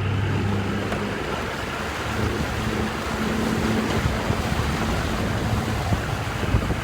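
Small fishing boat's engine running steadily while under way, beneath a steady rush of wind and water.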